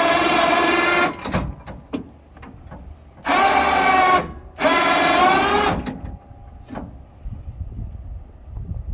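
Electric motor of a custom motorcycle-loading rig whining as it runs under load. It stops about a second in, then runs in two short bursts of about a second each, with a low rumble and light knocks in the pauses.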